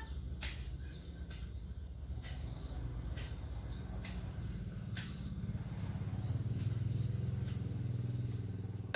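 Outdoor background noise: a steady low rumble that swells about two-thirds of the way in, with a few short sharp clicks or chirps over it.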